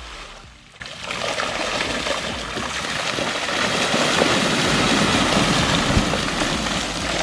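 Dense splashing of water that starts suddenly about a second in and grows louder midway: a school of mullet thrashing at the pond's surface, caught under a cast net.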